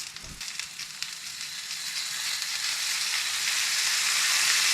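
Sliced squash and Vidalia onions frying in oil in a pan, a steady sizzle with light crackling that grows louder as the oil heats.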